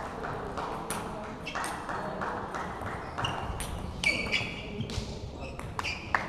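Table tennis ball clicking off bats and table in a rally, sharp hits at irregular intervals that come faster near the end.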